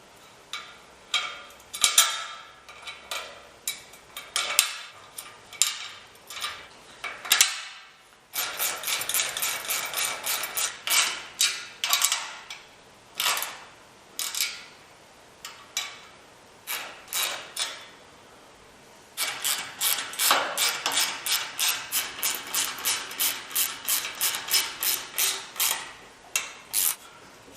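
Metal hand tools working on bolts and safety nuts: sharp metallic clicks, scattered at first, then two long runs of about three to four clicks a second, as with a ratchet wrench being worked back and forth.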